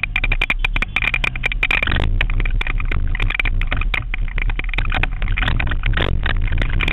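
Banger racing car engine running hard, with a steady high whine and dense, irregular clattering knocks throughout.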